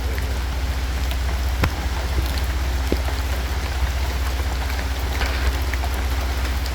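Steady rain falling in a forest, a continuous patter with scattered individual drops ticking, over a steady low rumble.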